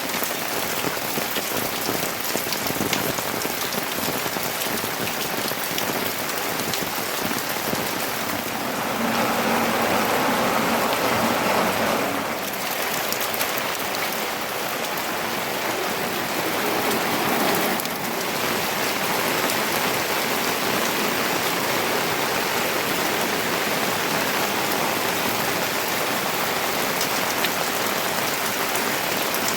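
Steady rain falling, an even hiss of drops that swells louder for a few seconds about nine seconds in.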